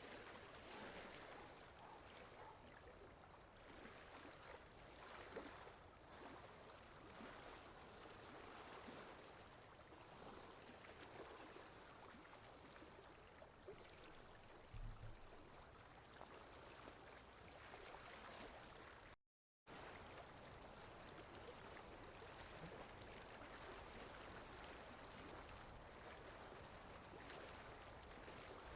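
Faint steady rain, an even hiss of falling drops with no rhythm, with a brief low thump about halfway and a split-second dropout to total silence about two-thirds of the way through.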